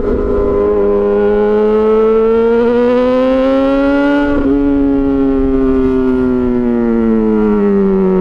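Yamaha XJ6 S inline-four motorcycle engine through an SC-Project aftermarket exhaust, riding along: the engine note climbs steadily for about four seconds, then slowly falls away as the throttle eases.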